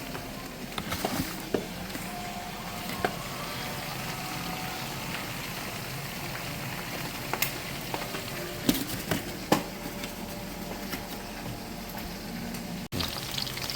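Food frying in hot oil, a steady sizzle, with a few sharp clinks of a utensil scattered through.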